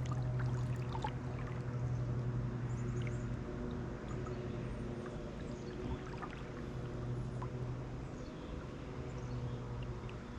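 Water dripping and trickling around a kayak and paddle, with scattered light splashes, most of them in the first second, over a steady low hum.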